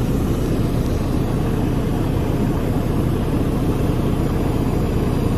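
Detroit DD13 inline-six diesel of a Freightliner Cascadia idling steadily, a low even rumble with no revving.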